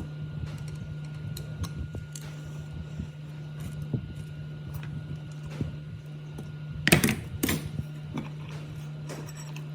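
Workshop handling noises: small knocks and clicks of parts and tools over a steady low hum, with a louder double scrape or clatter about seven seconds in.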